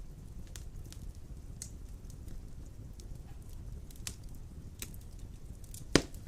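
Large logs burning in a stone fireplace: a low steady rumble of flame with scattered small crackles, and one loud sharp pop from the wood near the end.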